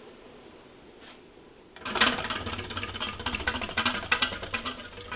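Codep ceiling fan switched on: its motor starts to hum about two seconds in, with a fast, uneven clattering rattle over it.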